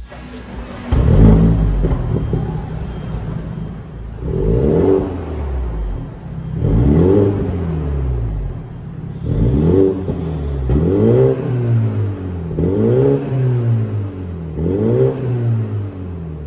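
BMW 320i's B48 2.0-litre turbocharged four-cylinder being revved through an MS-R valved cat-back exhaust. About seven separate blips, each rising quickly in pitch and falling back, with short pauses between them.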